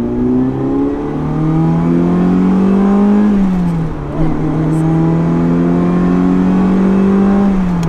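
A 1985 Ferrari 308's V8 accelerating hard up through the gears. The engine note climbs and drops with a gear change about half a second in, again at about three and a half seconds, and once more near the end.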